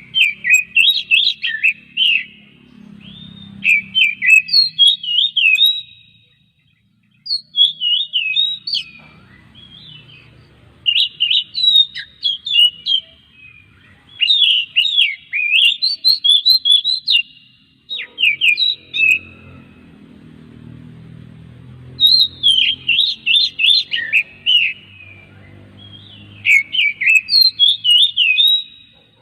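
Oriental magpie-robin (kacer) singing: loud runs of rapid, sharply sweeping whistled notes, each run lasting one to three seconds, broken by brief pauses.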